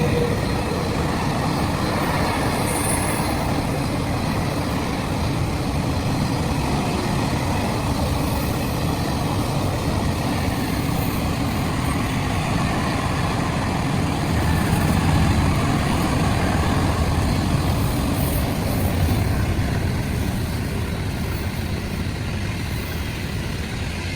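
A heavy train rolling past with a steady, dense rumble of wheels on rails. It swells a little around the middle and eases off near the end.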